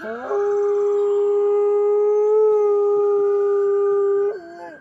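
A dog howling one long, steady note for about four seconds, on cue for a treat. The pitch drops as it ends, and a fainter high whine runs alongside.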